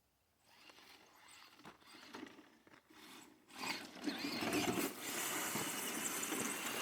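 Electric RC crawler truck driving over rocks and dirt: its motor and gear drive running, with a rapid clatter of tires and chassis on stones. It gets louder from about three and a half seconds in.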